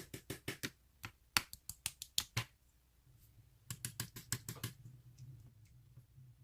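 Slime being pressed and squeezed by hand, giving a run of sharp little clicks and pops, a pause of about a second, then another quick cluster.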